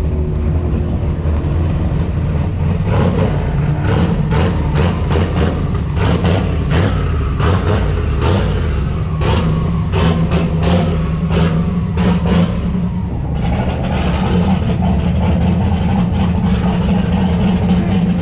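Car engine and exhaust running steadily with a deep drone, with many sharp clicks and taps over it. The character shifts about thirteen seconds in.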